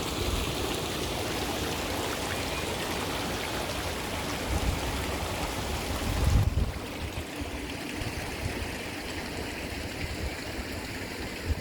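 Water rushing steadily at a canal lock. The brighter part of the rush drops away suddenly about six and a half seconds in, and a few low thumps hit the microphone just before.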